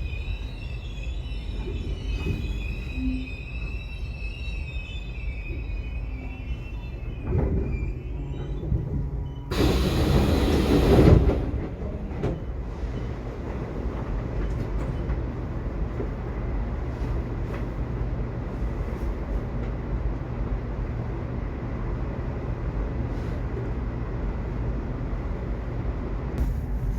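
Subway train running with a steady low rumble. High-pitched wheel squeal carries through the first several seconds. A loud rushing noise about ten seconds in lasts a second or two, then the rumble continues evenly.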